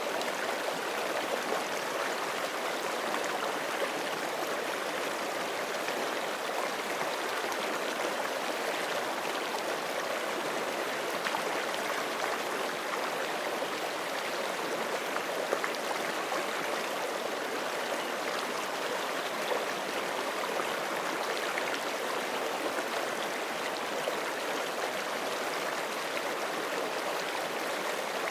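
Forest stream flowing steadily over rocks, a continuous rushing and gurgling of water.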